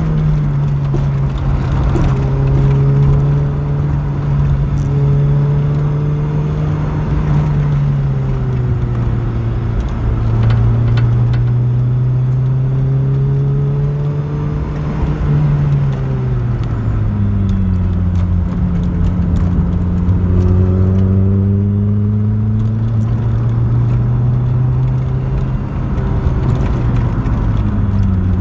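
A Mk2 Vauxhall Cavalier's 2.0-litre SEH four-cylinder engine driven hard, heard from inside the cabin. The engine note climbs under acceleration, sags as the throttle eases, and drops sharply at gear changes about two-thirds of the way through and again near the end. Scattered short rattles and clicks come through over the engine.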